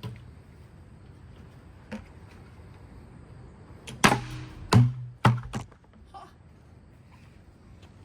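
A Hampton Bay Waterton ceiling fan being struck hard: a faint knock about two seconds in, then three sharp blows in quick succession around the middle, each with a brief low metallic ring.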